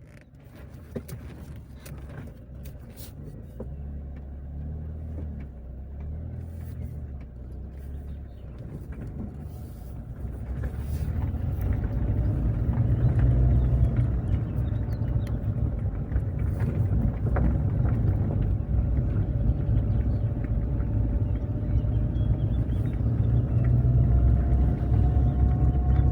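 Car driving, a low road-and-engine rumble that grows louder over the first twelve seconds and then holds steady.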